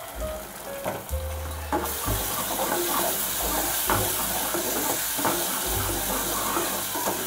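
Spices and tomato paste frying in oil in a saucepan: a steady sizzle that grows louder about two seconds in, with a wooden spoon scraping and stirring the mixture in repeated strokes. Background music with a low bass line plays underneath.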